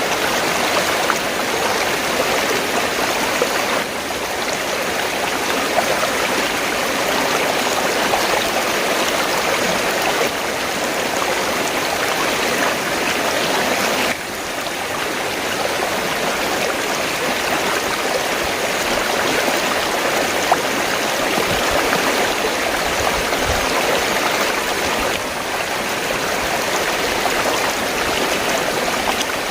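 Steady sound of river water flowing, an even wash with tiny splashing ticks and a few brief dips in level.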